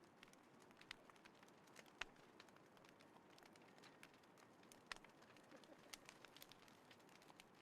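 Wood fire crackling in a small fire pit: sparse, irregular sharp pops and snaps over a faint hiss, the loudest about two seconds in and again near five seconds. A dove coos faintly in the background.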